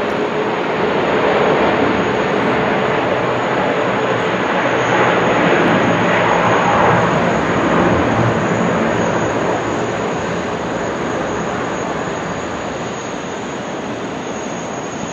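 Jet airliner engines: a loud, steady rush of noise that swells about halfway through and then slowly fades.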